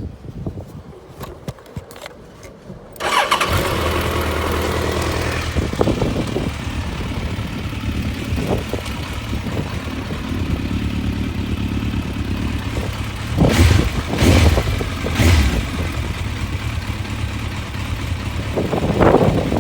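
Suzuki GSX1400's inline-four engine starting about three seconds in, then idling steadily, with three quick throttle blips about two-thirds of the way through and another near the end.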